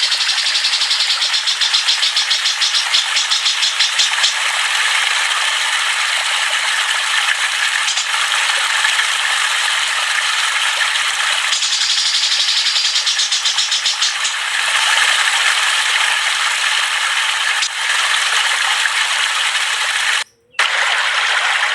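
Caged songbirds chattering continuously in a dense, rapid rattling trill, cut off briefly by a gap of silence near the end.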